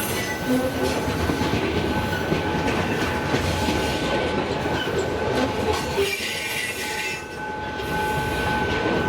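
Freight train rolling past, its wheels rumbling and clattering on the rails, with a thin steady high-pitched wheel squeal over the top. The noise dips briefly about seven seconds in.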